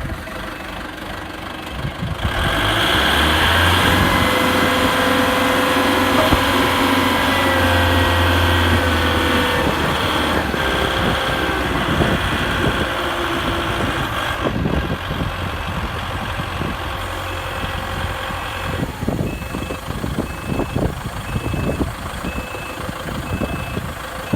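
Diesel forklift engine idling, then running louder and faster for about twelve seconds with a whine over it, then settling back toward idle. Near the end a high beeper repeats about twice a second.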